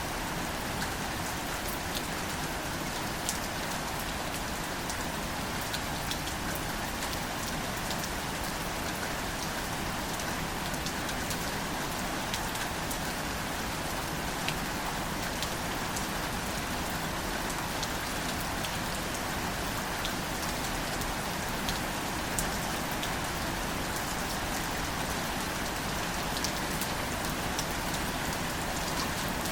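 Steady, gentle rain falling on plants, a continuous hiss with many small drop ticks scattered through it.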